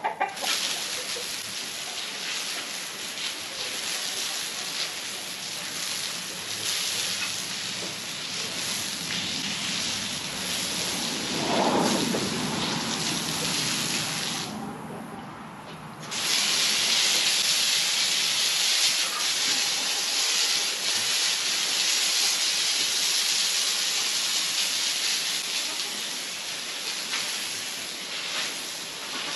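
Water spraying from a hose, a steady hiss that cuts off for a moment near the middle and comes back stronger, as the stalls are sprayed down.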